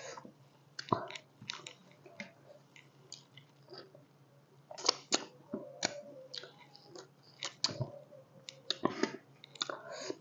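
A person chewing pork curry close to the microphone, with wet lip smacks and sharp mouth clicks, busier and louder in the second half.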